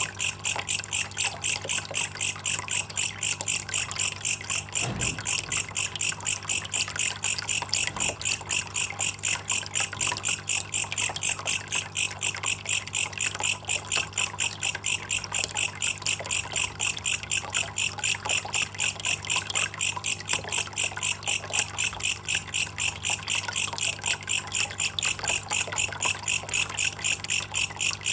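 Belalang kecek bush cricket trilling in fast, even, unbroken pulses, over trickling water.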